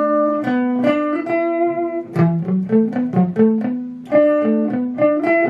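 Guitar playing a run of single plucked notes, a pentatonic scale played in short overlapping groups of four notes that step up and back down.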